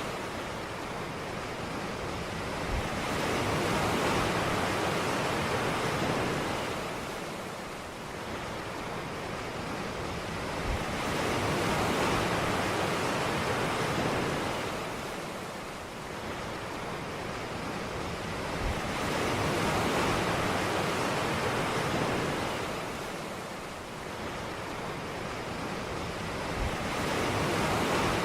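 Ocean surf washing onto a beach, the rush of each wave swelling and fading in a slow, even cycle of about eight seconds.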